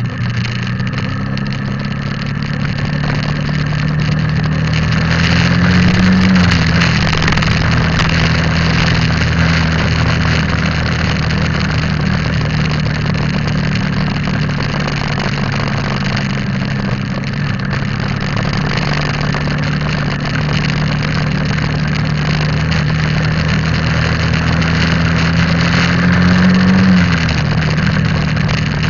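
Motorcycle engine running steadily while riding, over a constant rushing hiss. Its pitch climbs and then drops abruptly about six seconds in and again near the end.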